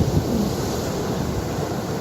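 Ocean waves washing on the shore: a steady, deep rush of surf.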